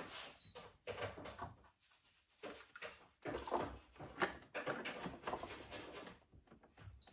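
Irregular scraping, rattling and knocking of machine parts being handled during a repair, in uneven bursts with a few sharper knocks.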